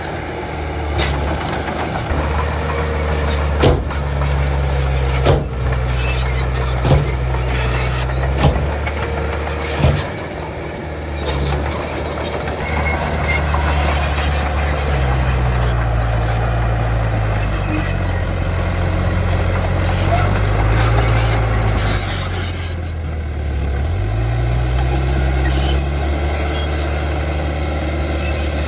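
Diesel engine of a Komatsu D31 crawler bulldozer working under load, its pitch dropping and rising again twice in the second half as the load changes. Five sharp metallic clanks about a second and a half apart come in the first ten seconds.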